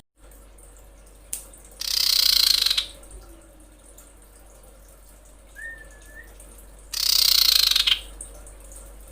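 Two loud, harsh hissing bursts of about a second each, some five seconds apart, and between them one short whistled note from a female common iora. This is a female iora's call, used to draw in a male.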